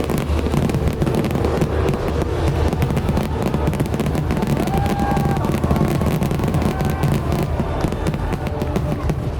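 Fireworks finale barrage: a dense, unbroken volley of shells going off, with rapid crackling over a deep rumble of booms.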